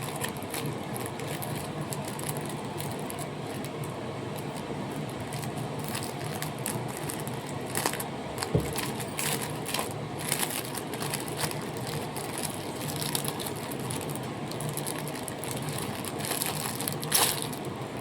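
Plastic packaging of a phone flip cover crinkling and clicking in short, scattered bursts as it is handled and opened, over a steady low hum.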